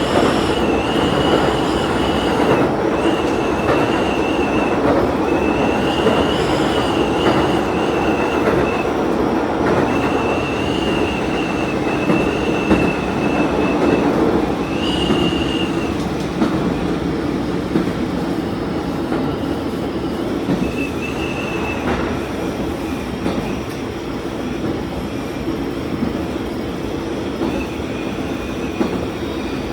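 Diesel railcar running along the line, heard from inside at the front: a steady drone of engine and rail noise, with a thin high wheel squeal from curves that comes and goes several times in the first half and briefly twice later.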